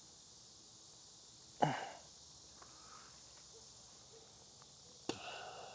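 Two short breath sounds from a person, about three and a half seconds apart, each fading quickly, over a faint steady high trill of insects.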